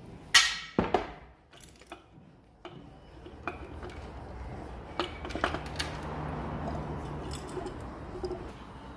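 Metal clanking from tools and engine parts: two loud sharp clangs about half a second apart near the start, then scattered lighter clinks over a low steady hum.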